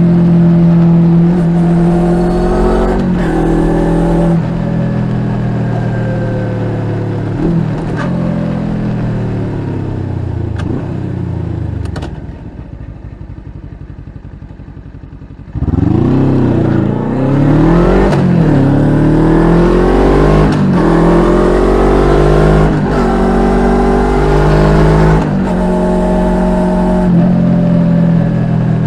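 Suzuki GSX250R parallel-twin engine breathing through an aftermarket slip-on muffler, riding. The note holds steady, then falls away as the bike slows and goes much quieter for about three seconds. Then it revs up in several quick rising sweeps with drops between them, the upshifts of accelerating through the gears, and settles to a steadier cruising note near the end.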